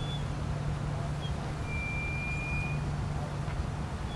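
Steady low drone of vehicle engines as cars creep slowly through the checkpoint lane, with a thin, steady high tone lasting about a second near the middle.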